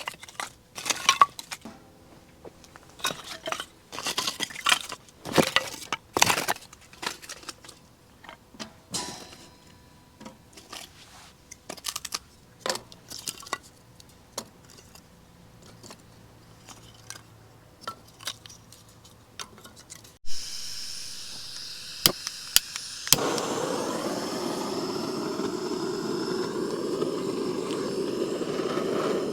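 Dishes and utensils clinking and knocking in scattered taps. About twenty seconds in a steady hissing rush starts suddenly, growing louder a few seconds later.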